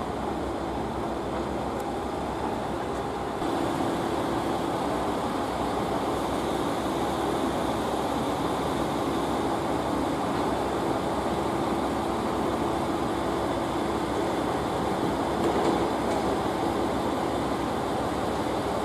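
Steady running noise of a train, an even rumble with a faint steady hum, which gets louder about three and a half seconds in.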